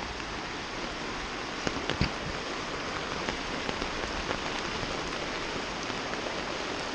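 Steady hiss of rushing water, with a couple of faint light knocks about two seconds in.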